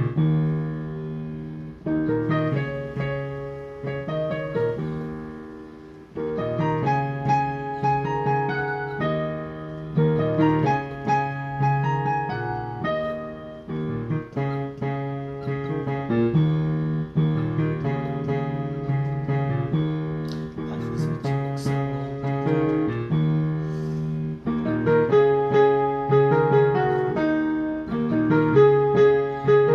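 Piano music: a melody with chords, played in phrases with a short pause about six seconds in.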